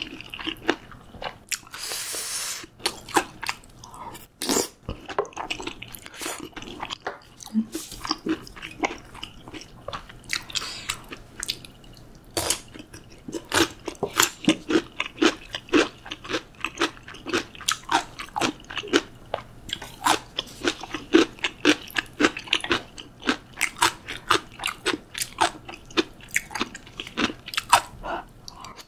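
Close-miked eating of crunchy food: sharp crunching bites and chewing, growing dense and rhythmic in the second half.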